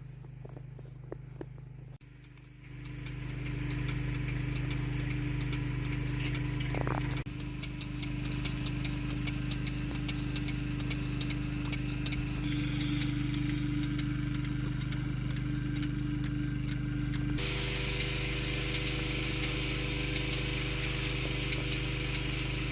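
A machine motor starts up about two seconds in and then runs with a steady hum; a hiss joins it about seventeen seconds in.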